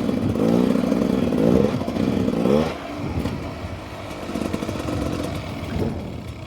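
Beta 300 RR two-stroke dirt bike engine revving up and down, then dropping to a lower, steadier run about three seconds in.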